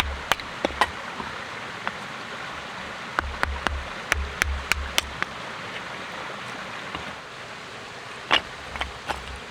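Bursts of sharp clicks and knocks, a few a second, some with a dull thump under them, over a steady hiss; the knocks stop for a few seconds in the middle, and one louder knock comes near the end.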